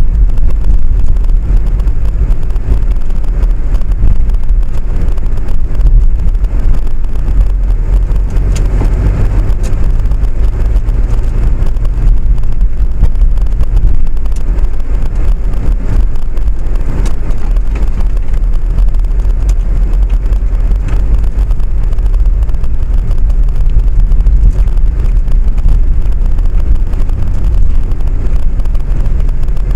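Steady low running rumble of a moving vehicle, heard from on board.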